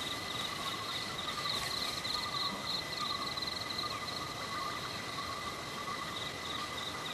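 Forest insects calling in a steady chorus: a high, fast-pulsing trill over lower, continuous buzzing tones.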